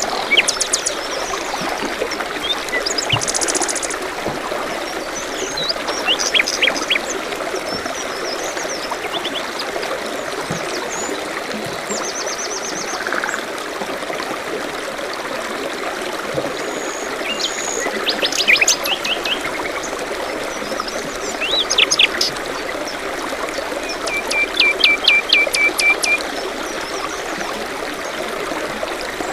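A small stream trickling steadily, with songbirds calling over it in short chirps and whistles; a rapid trill of repeated notes comes near the end.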